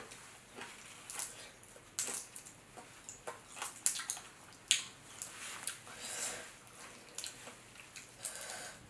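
Close-up wet eating sounds of sauce-covered Dungeness crab: irregular lip smacks, squelches and chewing clicks, a few sharper than the rest.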